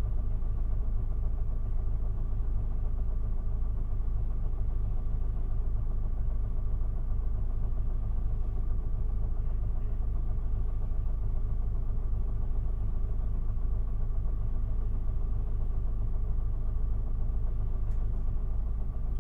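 Isuzu Erga city bus's diesel engine idling steadily while the bus stands at a stop, heard from inside the passenger cabin.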